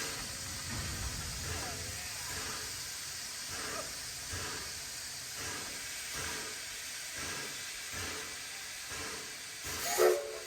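Steam hissing steadily from the standing 4-6-0 steam locomotive Sierra No. 3, with faint voices in the background and a short louder sound near the end.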